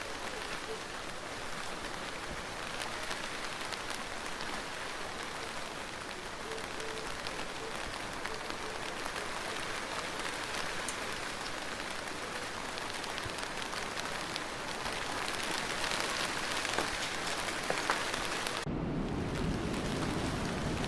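Steady rain falling, a dense even hiss of many drops with fine individual drop ticks. Near the end the sound changes abruptly to a deeper, duller rush.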